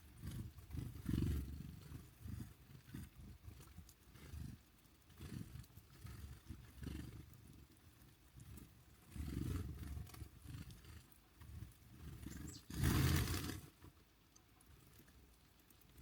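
Wind buffeting the microphone in uneven gusts, heard as low rumbles, with one louder rush of noise about thirteen seconds in.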